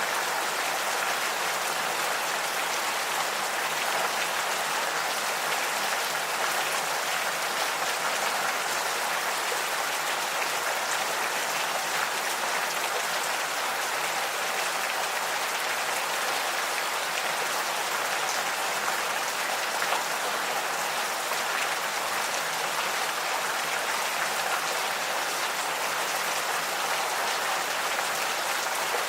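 Gentle, steady rain falling, a continuous even patter of drops with no thunder or distinct bird calls standing out.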